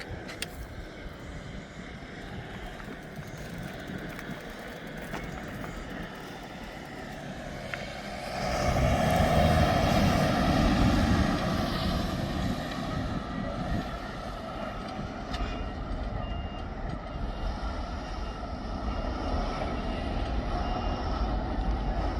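Diesel engine of a heavy earthmover on a construction site running and passing by, loudest from about eight to twelve seconds in. In the second half, a reversing alarm beeps over and over.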